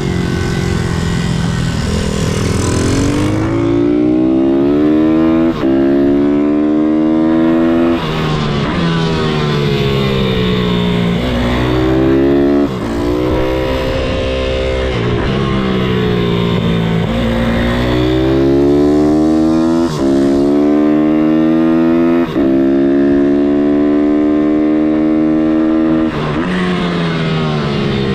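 MRF 160-R SM pitbike's single-cylinder four-stroke engine under way, its pitch climbing and falling again and again as the bike accelerates and slows. About six brief cuts in the sound break it up, typical of gear changes.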